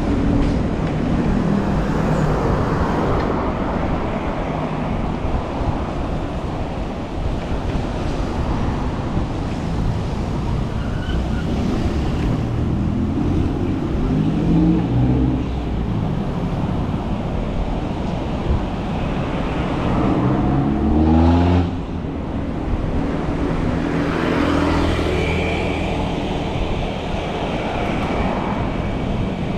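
City road traffic heard from a bicycle: a steady hum of vehicles passing close by, with engines rising in pitch as they pull away around the middle and again about two-thirds through, the loudest a low rumble about 21 seconds in.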